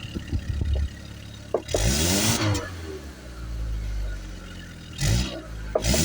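2003 Hyundai Accent GLS four-cylinder engine idling and revved twice with throttle blips, about two seconds in and again near the end, the revs climbing and falling back to idle each time.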